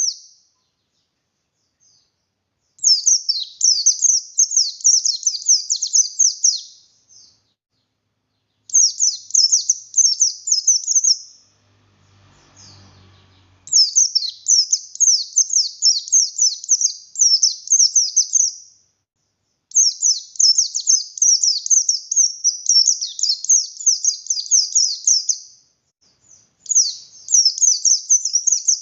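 A buxtoni white-eye (pleci buxtoni) singing hard, in long phrases of rapid high chattering notes a few seconds each, with short pauses between. A faint low hum comes briefly in one of the pauses around the middle.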